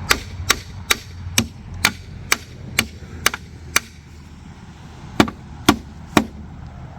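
Hammer blows on the gimbal housing bolts of a stern drive, driving them over. About two sharp strikes a second: a run of nine, a short pause, then three more.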